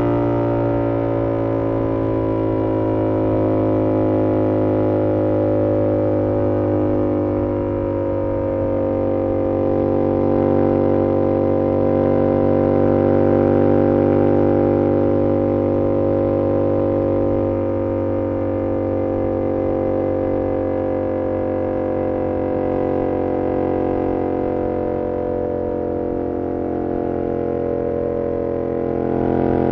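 2022 Yamaha R7's parallel-twin engine through an SC-Project CR-T exhaust at a steady cruise: a constant engine drone whose pitch eases down a little over the first several seconds, then holds, swelling slightly in loudness midway.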